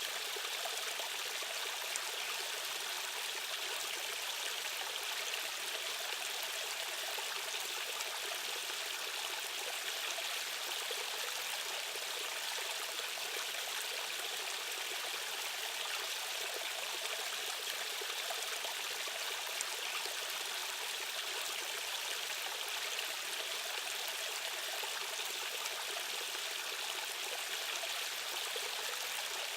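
A fast stream's current rushing and splashing over rocks in a steady, even wash, with small trickles and splashes flickering through it.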